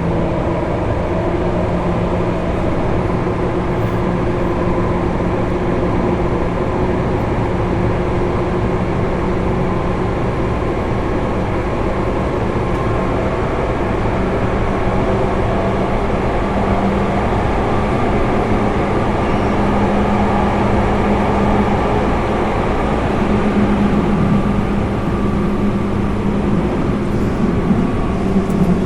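Running sound of a JR 205-series electric train heard inside the motor car: a steady hum and whine from its MT61 externally fan-cooled traction motors, with rail and wheel noise. It runs at speed between stations, its pitch and loudness climbing slightly in the second half.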